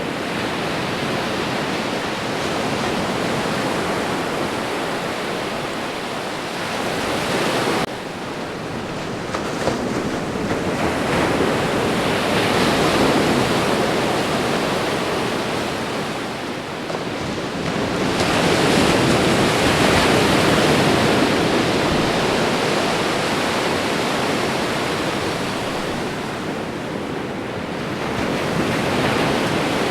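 Ocean surf: waves breaking and washing ashore in a continuous rush that swells and eases in slow surges several seconds apart, with one abrupt drop in level about eight seconds in.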